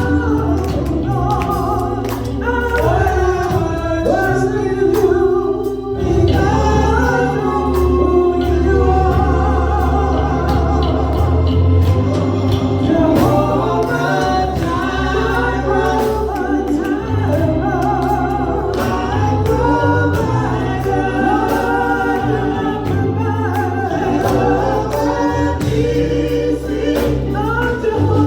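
Gospel music: a choir singing with a steady bass and keyboard accompaniment.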